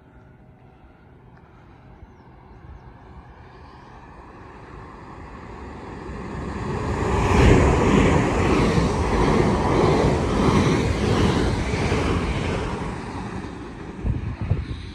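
An electric multiple-unit passenger train runs past along the platform under overhead wires. It grows louder as it approaches, is loudest with wheel and rail noise and a faint high whine for about five seconds, then fades as it draws away.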